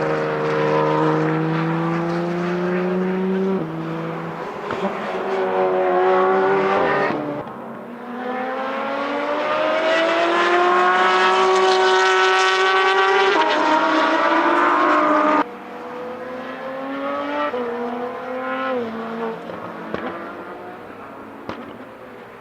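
Porsche 992 GT3 RS's naturally aspirated flat-six through a Brillsteel Edizioni Corsa aftermarket exhaust, revving hard under acceleration. Its pitch climbs and drops sharply at each upshift. The sound cuts off abruptly about fifteen seconds in; a quieter run follows, again climbing and shifting, and fades away.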